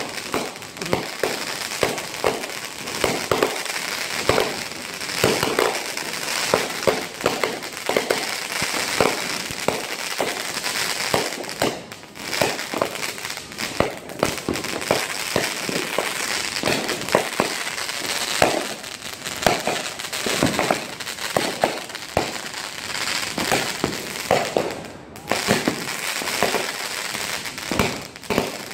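Fireworks and firecrackers going off: a dense, unbroken run of sharp bangs and crackling, many reports a second.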